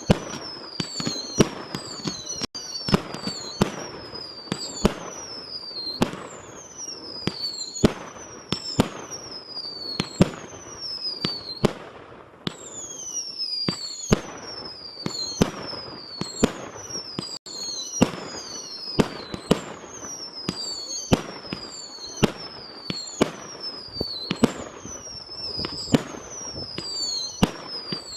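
Fireworks barrage: sharp bangs fired one after another, about one to two a second, each trailed by a high whistle falling in pitch for about a second.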